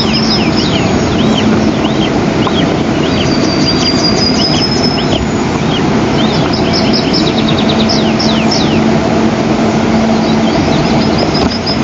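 Eastern imperial eagle chicks' food-begging calls: runs of short, high, arched chirps repeated about two to four times a second, with a few longer high whistles. Under them is a loud steady rushing noise with a low hum.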